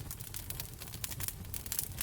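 Wood fire crackling in a fireplace: many small irregular crackles and snaps over a low, steady rumble.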